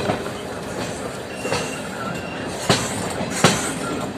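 A passenger train's coaches running on the track, heard from the open side of a coach: a steady rumble and wind noise, broken by sharp irregular clacks as the wheels cross track joints. The loudest clacks come about two and a half and three and a half seconds in.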